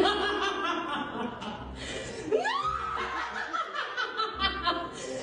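A woman's exaggerated evil laugh, a drawn-out cackle with a high shriek that sweeps up and back down about two seconds in.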